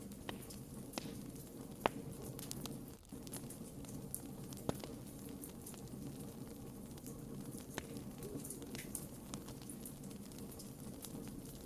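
Wood fire crackling in a fireplace: a steady low rush of flame with scattered sharp pops, the loudest about two seconds in and again near five seconds.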